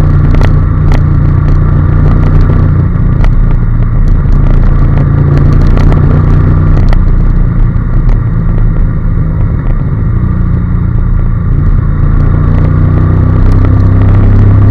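Honda NC750S parallel-twin engine running at road speed, its note shifting with the throttle and climbing again near the end, over a constant rush of riding noise with scattered small clicks.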